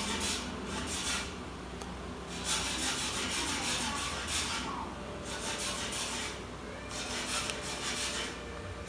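Irregular scraping and rubbing strokes of tools and hands working on a Dell Latitude E7470 laptop's body while its keyboard is being replaced, a few short strokes and one that lasts about two seconds, over a steady low hum.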